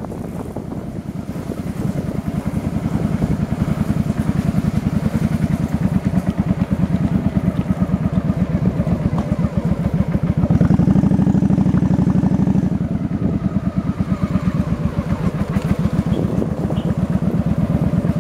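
Motorbike engine running with a rapid, even pulse while riding, wind buffeting the microphone. It grows louder for a couple of seconds about ten seconds in.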